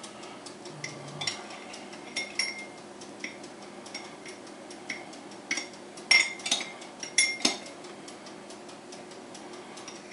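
Dishes and utensils being handled: irregular sharp clinks and clatter with a short ring, loudest in a cluster about six to seven and a half seconds in.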